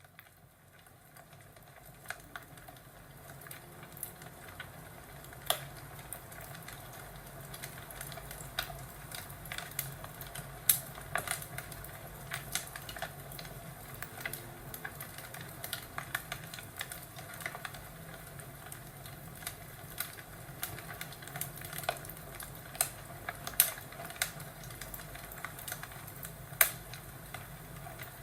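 Crackling fireplace: a steady low hiss under irregular sharp pops and snaps, a few a second, with some louder cracks. It fades in over the first couple of seconds.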